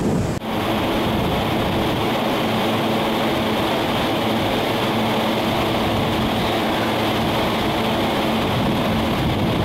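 A JR E233 series commuter train standing at the platform, with the steady hum of its onboard equipment and air conditioning: an even noise with a low held tone. It breaks off briefly about half a second in, then carries on unchanged.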